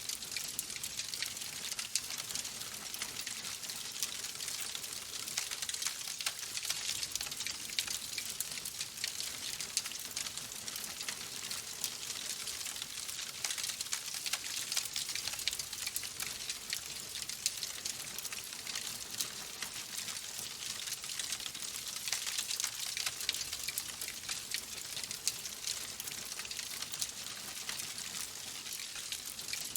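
Logs burning in a fireplace, crackling steadily: a dense stream of small sharp pops and snaps over a soft hiss.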